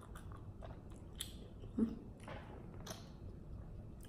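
Close-up mouth sounds of someone chewing a bite of strawberry mochi ice cream (sticky rice dough around frozen ice cream): soft, wet chewing with small clicks, and one short, louder low sound about two seconds in.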